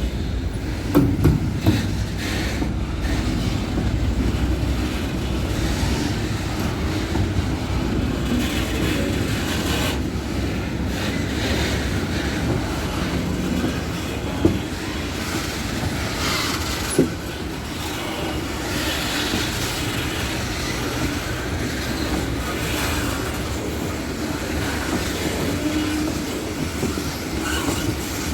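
Loaded freight train wagons rolling past on steel rails: a steady rumble with wheels clattering over the rail joints and a few sharp knocks.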